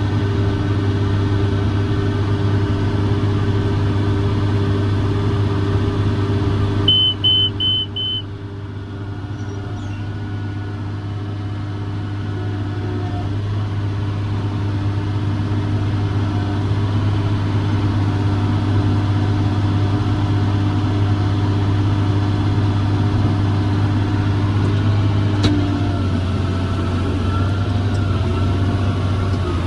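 John Deere 7410 tractor's diesel engine running steadily under load while pulling a round baler. Four short, high beeps sound about seven seconds in. The engine sound then drops and slowly builds back up.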